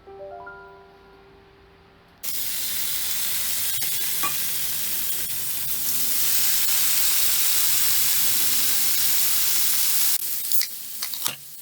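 Soft mallet-instrument music for about two seconds, then food starts sizzling loudly in a hot pan, a steady hiss that turns choppier with a few clicks near the end before cutting off suddenly.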